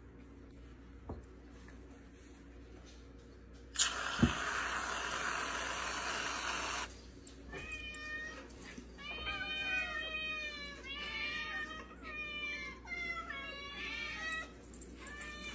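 Cat meowing, a string of about seven drawn-out meows in the second half. Before them, a steady rush of noise lasts about three seconds, with a single knock near its start.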